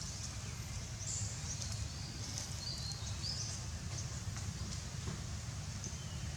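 Several short, high-pitched animal chirps scattered over a steady low rumble of background noise.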